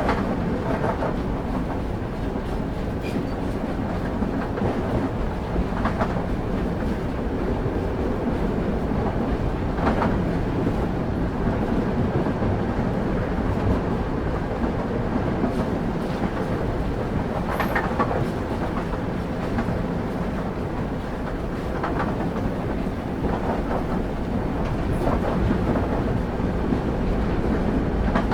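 Train running along the rails, heard from on board: a steady low rumble of wheels on track, with a clack over a rail joint every few seconds.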